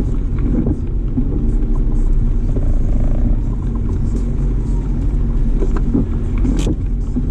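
Steady low rumble of a car driving, heard from inside the cabin: engine and tyre noise. There is a single sharp click near the end.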